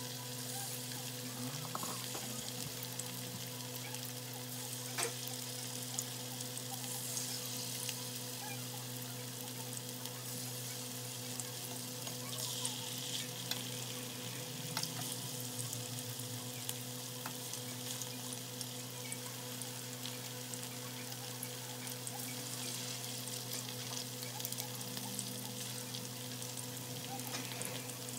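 Battered chicken pieces deep-frying in a pan of hot oil: a steady sizzle, with scattered light clicks of metal tongs as more pieces go in. A steady low hum runs underneath.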